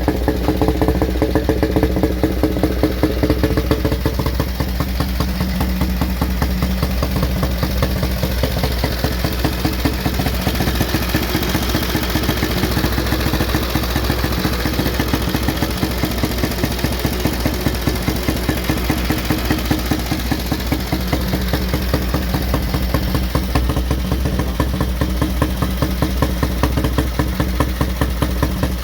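Motorcycle engine idling steadily, with an even, regular beat.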